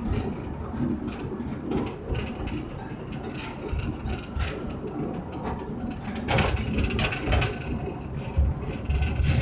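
Narrow-gauge forest railway train running, its cars rattling and clicking over the rails over a steady low rumble, heard from on board. The rattling grows louder about six seconds in.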